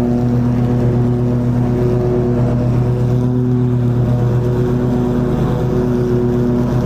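Toro TimeCutter 50-inch zero-turn mower running steadily while it cuts long grass, its engine and spinning deck blades making a loud, even drone. The pitch dips and recovers slightly partway through.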